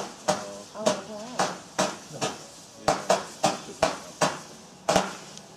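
Firework going off in a quick, irregular run of sharp bangs, about two or three a second, each with a short echo.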